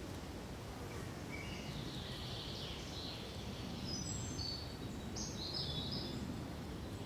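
Songbird singing a run of short high notes over a steady low rush of forest ambience; the song starts about a second in and grows busier in the second half.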